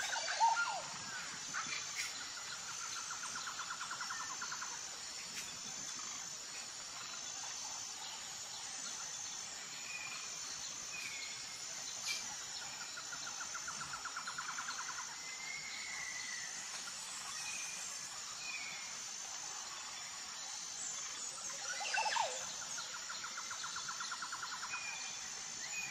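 Outdoor nature ambience: scattered bird chirps over a steady high insect drone, with a rapid pulsing trill that comes back about every ten seconds.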